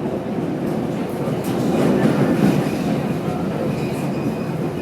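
CTA Brown Line elevated train running between stations, heard from inside the car: steady rumble of wheels on the track, swelling about two seconds in, with a faint squeal from the wheels near the end.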